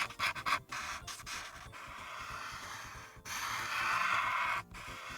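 Alcohol marker nib rubbing across paper: a run of short scratchy strokes, then a longer, louder stroke held for about a second and a half that stops abruptly near the end.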